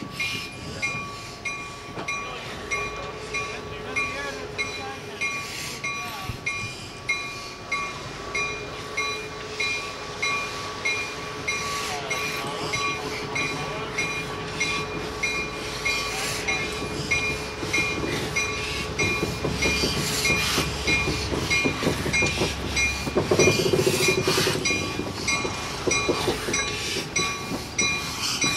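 Slow-moving train: a diesel switcher locomotive running as it moves a 2-6-6-2 steam locomotive, with steel wheels clicking and creaking on the rails and a bell ringing steadily, somewhat under twice a second. The rumble grows louder past the middle.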